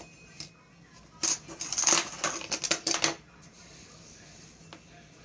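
Clattering and clinking of small hard objects for about two seconds, starting about a second in.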